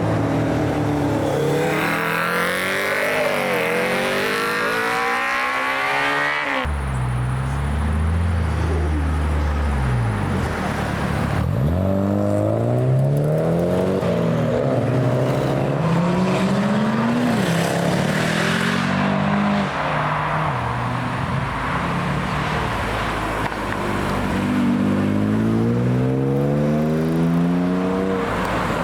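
Performance cars accelerating hard one after another, their engine notes rising through the gears and dropping back at each shift.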